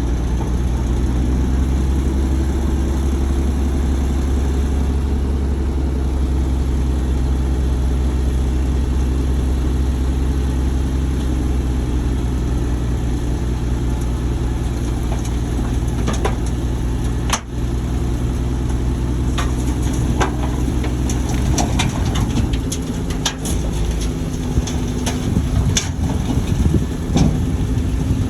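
Shantui bulldozer's diesel engine running steadily, with a deep even hum. From a little past halfway, sharp clanks and knocks come in, and near the end the steady engine note weakens into more uneven, clattering sound.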